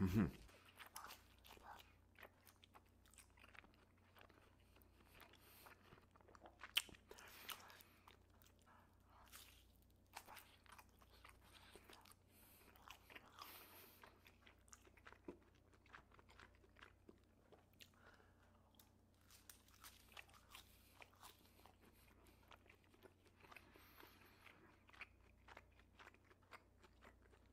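Close-miked chewing and biting of cheese quesadillas: soft mouth sounds with small crunches of the toasted tortilla and one sharper bite about seven seconds in.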